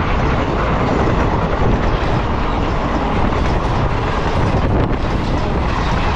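Indian Railways passenger coaches rolling past close by on a departing express train: a steady loud rumble and rush of steel wheels on the rails, with light clatter over the rail joints.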